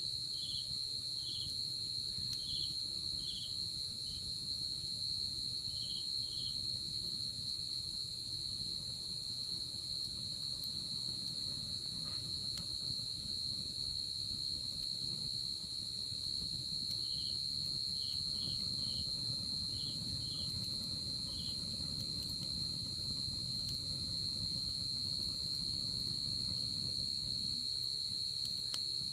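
Crickets and other night insects trilling in a continuous high, steady drone. A second insect adds short, evenly spaced chirps near the start and again past the middle, over a low steady rustle.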